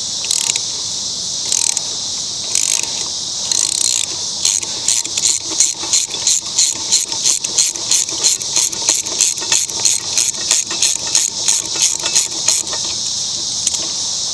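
Socket ratchet wrench clicking as the mower blade bolt is loosened: a few single clicks at first, then a fast steady run of clicks that stops shortly before the end. Crickets chirr steadily in the background.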